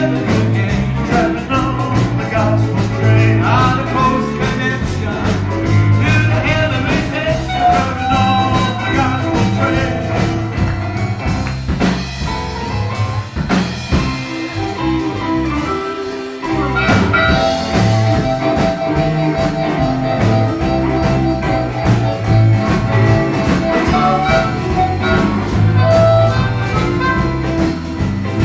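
A live band playing a blues-rock song with drum kit, bass and guitar in a steady beat. About halfway through, the bass and drums drop out for about a second, then the band comes back in.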